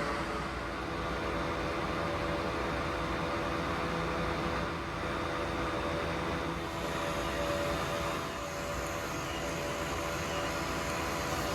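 Weil-McLain gas boiler running after a call for heat: a steady hum with several fixed tones over a broad hiss. A little more hiss joins in the highs about two-thirds of the way through.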